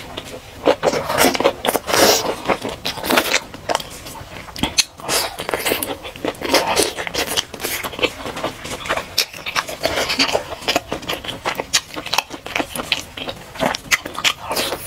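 Close-miked eating: biting and chewing a hamburger, with a dense run of sharp crackling clicks and wet mouth sounds.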